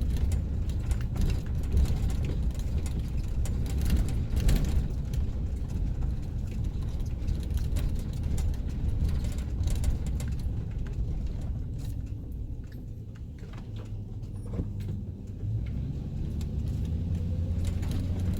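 A van's engine and road noise heard from inside the cab while driving slowly, a steady low rumble with scattered small clicks and rattles. It eases off for a few seconds past the middle, then picks up again.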